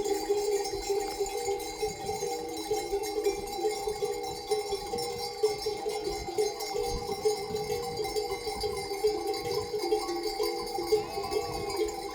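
Many livestock bells on a flock clanking continuously and irregularly, several pitches overlapping as the animals move.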